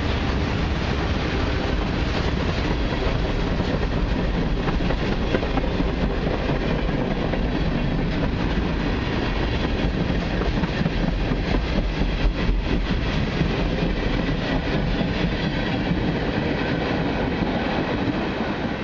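Freight train's tank cars and covered hoppers rolling past, a steady rush of steel wheels on rail with clickety-clack over the rail joints. The noise drops off near the end as the last car goes by.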